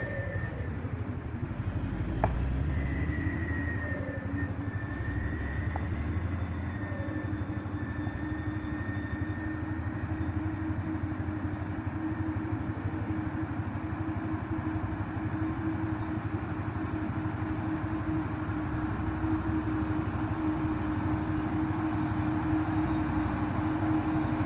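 A motor vehicle's engine runs steadily with a constant drone, getting slowly louder near the end.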